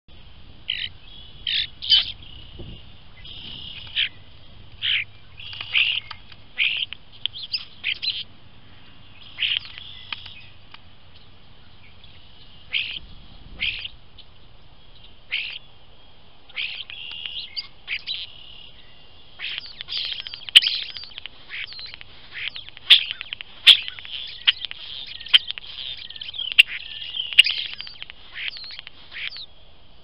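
An unidentified bird perched on top of a trail camera, calling right at the microphone: a long run of short chirps, scattered at first and coming thick and fast from about two-thirds of the way through, with a few sharp clicks among them.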